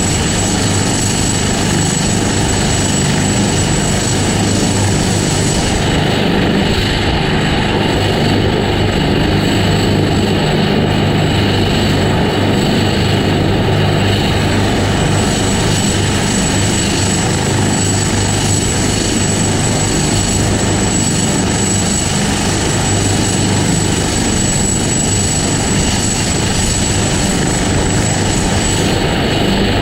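A helicopter running, its rotor and engine noise loud and steady throughout.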